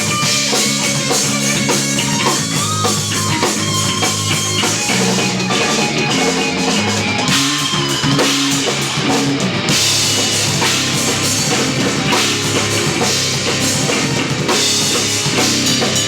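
Live instrumental post-rock played by a trio on electric guitar, electric bass and drum kit, with steady drumming and cymbals under sustained bass notes and guitar lines.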